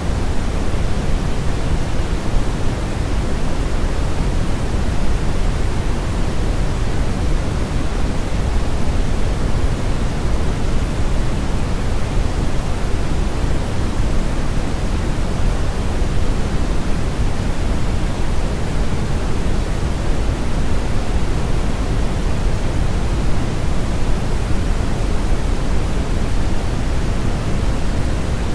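Steady synthetic brown noise: a constant deep, rumbling hiss weighted toward the low end, with much less high-frequency content than white noise.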